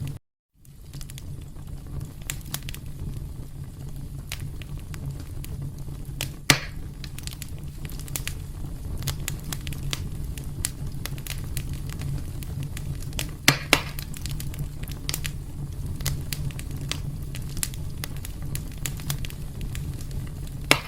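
Fire burning in a fireplace: a steady low rumble with constant small crackles. Sharper pops come about a third of the way in, twice in quick succession about two-thirds in, and once near the end. The sound cuts out completely for a moment just after the start.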